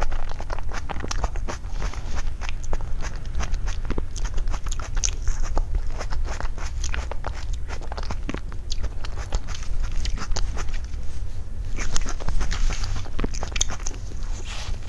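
A person chewing and biting into a soft cream-topped pastry, close to a clip-on microphone: a steady run of quick mouth clicks and smacks over a low, steady hum.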